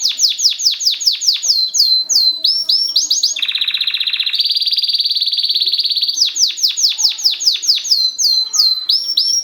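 Mosaic canary singing a loud song phrase: a run of fast descending sweeps, a few quick rising notes, then a steady buzzing roll. The phrase repeats about six seconds in.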